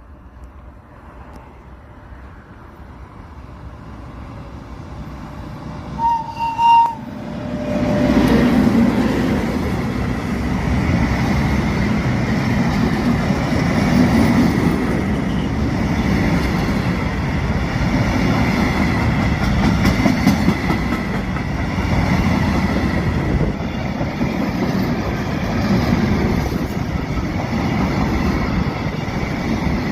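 FS E652 electric locomotive approaching with a rising rumble, sounding two short horn blasts, then passing close with a freight train, its wheels rumbling and clattering steadily on the rails.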